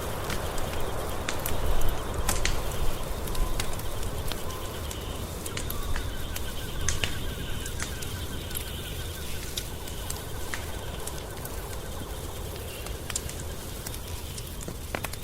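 Wood fire crackling, with irregular sharp pops over a low, steady rumble of flames.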